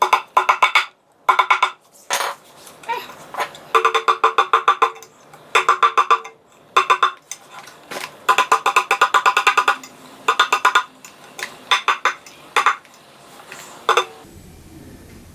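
Rapid clusters of hard clinking strikes with a ringing pitch, broken by short pauses; they stop about a second before the end.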